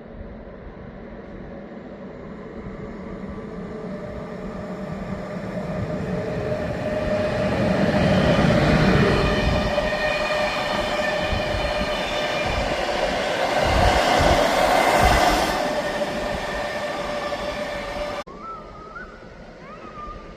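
Passenger train hauled by a Siemens electric locomotive passing close by, growing louder to two peaks with a steady tone over the rolling noise and a few low thuds at the second peak. The sound cuts off abruptly about two seconds before the end to a quieter background.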